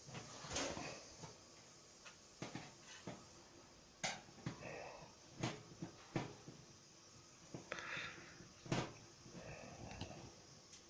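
Faint scattered clicks and knocks of hand tools and a metal panel being handled as the back cover of a washing machine is taken off.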